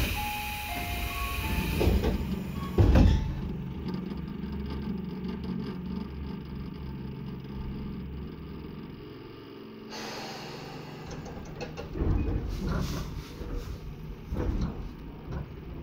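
On-board sound of a Tobu 10030-series electric train, recorded above its line breaker. A few short steady tones come first, then a heavy thud about three seconds in. The car's equipment then keeps up a steady low hum, with knocks and rattles returning in the last few seconds.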